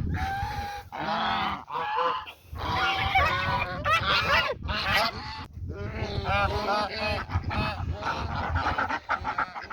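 Domestic geese honking repeatedly, several calls following one another in quick runs throughout.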